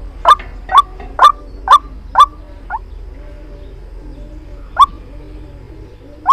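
White-breasted waterhen calling: a run of short, sharp, loud notes about two a second, fading after a couple of seconds, then two single notes spaced apart. This is the waterhen call that trappers play to lure the bird.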